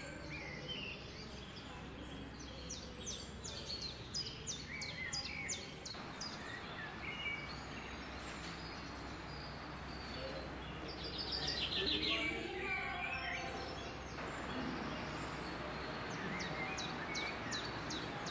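Small birds chirping in quick, short calls over a steady low hum of room ambience, with a busier run of chirps about two-thirds of the way through.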